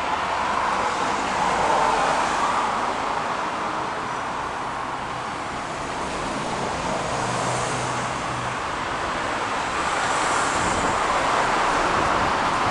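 Steady motor-vehicle noise, a hiss of traffic-like sound that swells and eases slightly, with no clear engine note standing out.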